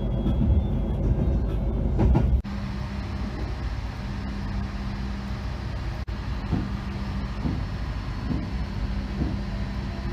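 Passenger train running: a loud low rumble that drops suddenly a couple of seconds in to a steadier, quieter hum with a soft knock about once a second.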